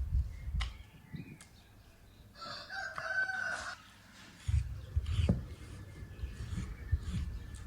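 A rooster crows once, a single call of just over a second near the middle. Low thumps and knocks follow.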